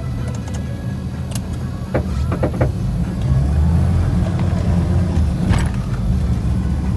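Off-road SUV engine running under load while driving over snowy forest ground, getting louder from about halfway through. A few sharp knocks or snaps come in the middle and near the end.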